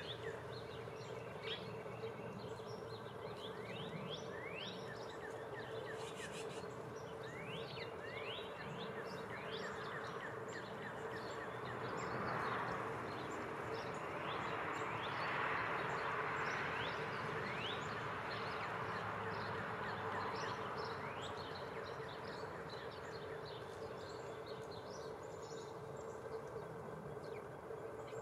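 Small songbirds at a feeder giving many short, high chirps scattered throughout, over a steady low hum. A soft rushing swell rises and fades about halfway through.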